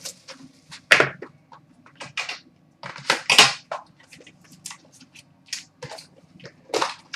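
Plastic shrink-wrap being torn and crinkled off a sealed trading card box, in irregular crackling bursts with a few louder tears.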